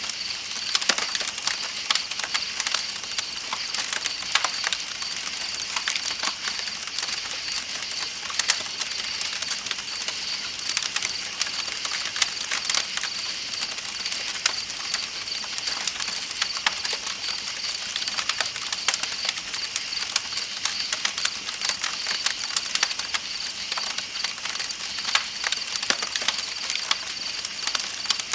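Campfire crackling with frequent sharp pops, over a steady high chirring of night insects and the even rush of flowing river water.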